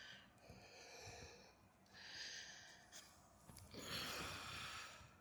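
Faint breathing close to the microphone: three slow breaths, each about a second long.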